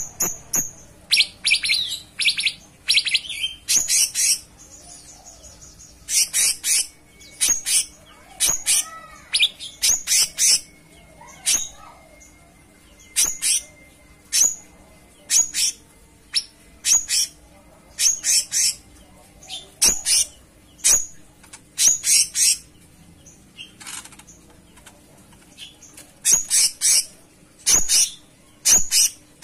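Cucak cungkok songbird singing vigorously in short, high, sharp chirps, repeated about once a second, some in quick clusters.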